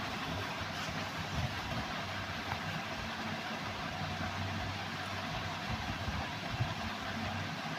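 A steady mechanical hum under a constant hiss, like a motor running at idle, with no clear changes.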